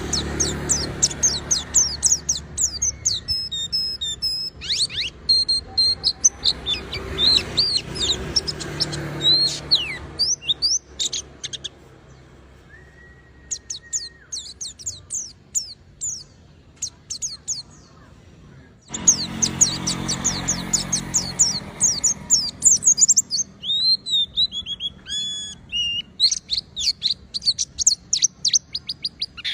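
White-eyes (pleci) singing in rapid, high twittering chirps and trills. The song thins out to a few chirps about halfway through, then starts up again suddenly and busily.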